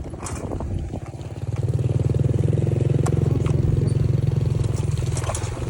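A vehicle engine running with a rapid, even pulse, getting louder about a second and a half in and then holding steady.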